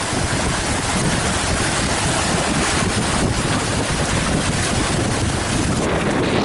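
Strong gusty wind blasting the microphone in a steady loud rush, over water rushing past a sailing catamaran.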